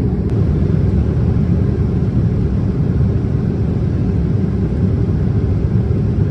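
Steady low rumble of cabin noise inside a Boeing 787-10 airliner in flight, the engine and airflow noise heard from an economy seat.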